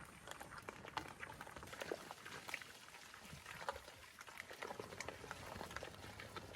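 Pigs feeding and rooting: a quick, irregular run of wet smacks, crunches and rustles.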